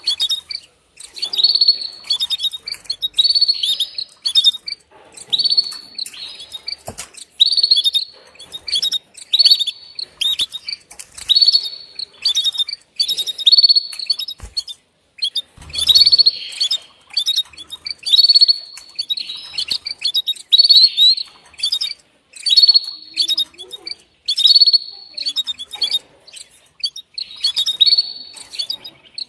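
Female canary's mating call: short chirping phrases repeated about every one and a half seconds, the hen calling to the male.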